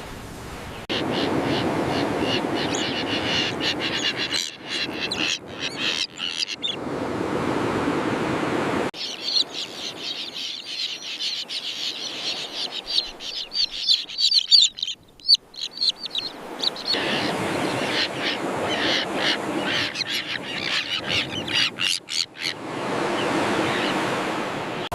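A crowd of common terns calling at once in a colony: a din of short, harsh, repeated calls over a steady rushing background. The sound breaks off abruptly and starts again several times.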